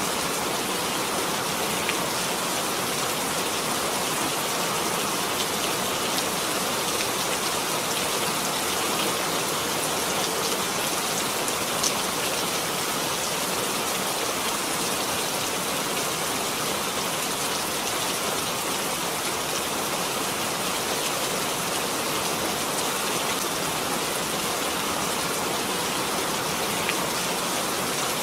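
Steady rain falling, a dense even hiss with scattered individual drops ticking on surfaces.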